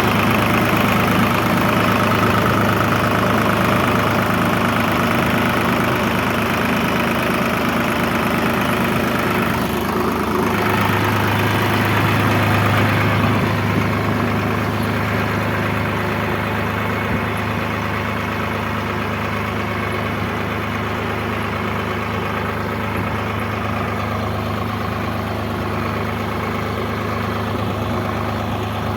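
Tractor diesel engine running steadily at idle, a constant low hum that grows a little stronger about ten seconds in.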